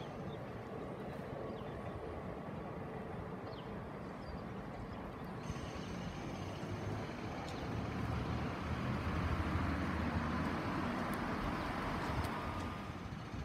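Distant electric passenger train running along the line: a steady low rumble that grows louder about eight seconds in, over outdoor background noise.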